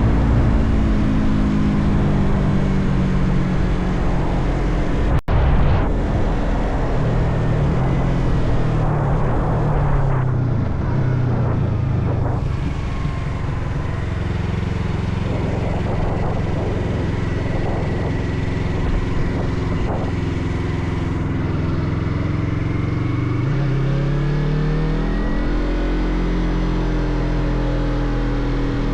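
Motorcycle engine running under way with wind rush, its pitch shifting up and down with throttle and gears. Near the end the engine note drops away, then climbs steadily as it revs back up.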